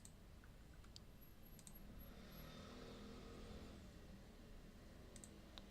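A few faint, sharp computer mouse clicks over quiet room tone, with a faint low hum in the middle.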